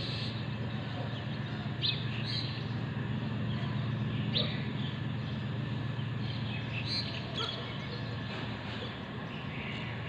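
Birds chirping outdoors in short, scattered calls, over a steady low background hum.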